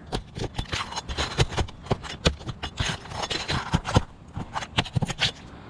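Asphalt roof shingles being handled: irregular scrapes and knocks as the tabs are lifted and pushed back to check the nails beneath.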